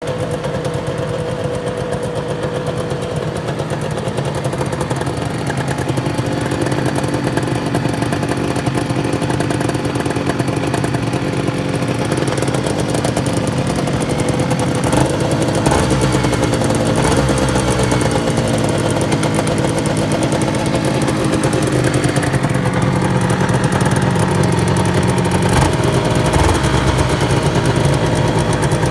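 1992 Honda NSR250R MC21's two-stroke 90° V-twin running on choke. The engine speed wavers up and down about halfway through, then it settles back to a steady run.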